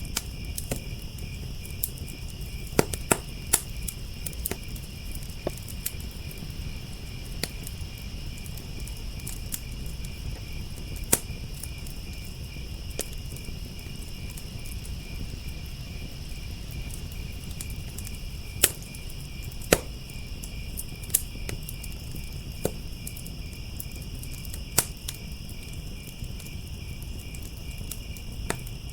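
Crickets chirping in a steady, fast pulse, with a wood fire crackling: scattered sharp pops and snaps, a few louder ones standing out.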